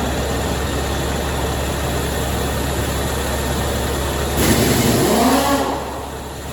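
Caterpillar C7 inline-six diesel engine running steadily, with a louder rush about four and a half seconds in that lasts about a second, after which the sound settles a little quieter.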